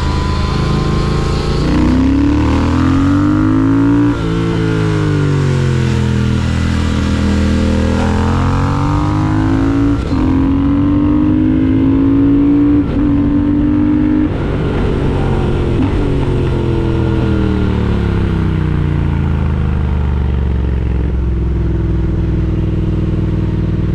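Triumph Speed Twin 1200's parallel-twin engine running under load, its pitch rising and falling several times as the revs climb and drop. It holds high for a few seconds with a couple of brief dips, then winds down.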